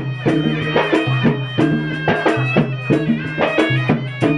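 Gendang silat ensemble playing: double-headed gendang drums beat a quick, steady rhythm under a reedy serunai melody.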